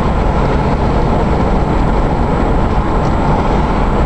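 Steady rush of wind and road noise from a moving vehicle, with heavy low wind buffeting on the microphone.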